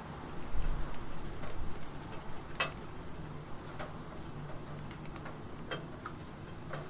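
Sparse, scattered computer keyboard key clicks, single strokes a second or so apart, over a steady background hiss of rain. A dull low thump comes about half a second in.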